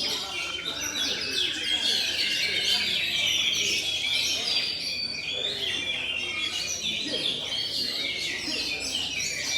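Several oriental magpie-robins singing at once, a dense, unbroken mix of overlapping whistles and chirps.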